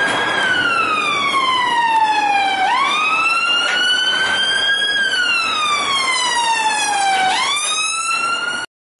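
Fire engine siren wailing: a pitch that slowly falls, sweeps quickly back up and climbs again, in two long cycles. It cuts off abruptly near the end.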